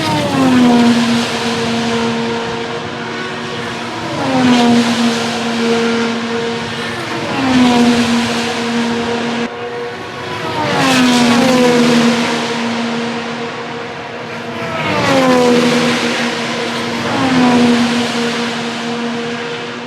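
IndyCar race cars' twin-turbo V6 engines passing one after another at high speed, each engine note dropping sharply in pitch as the car goes by. About six pass-bys.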